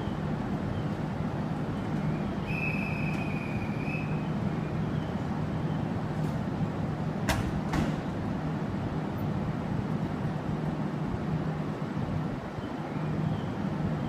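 JR 701-series electric train humming steadily at the platform. A short high tone sounds about two and a half seconds in, and a sharp click comes about seven seconds in.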